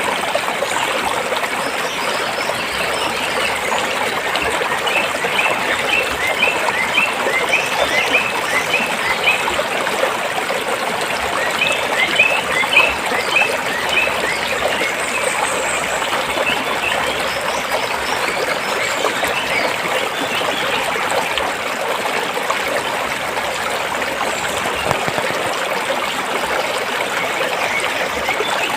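A stream flowing and trickling over rocks, a steady rushing water sound. Two runs of quick, high chirps come through it, a few seconds in and again near the middle.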